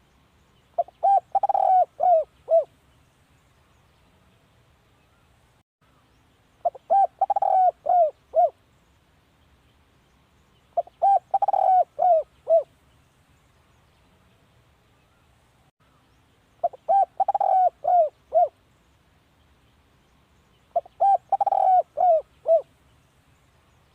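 Spotted dove cooing: five song phrases, one every four to five seconds, each a quick run of several cooing notes lasting about two seconds.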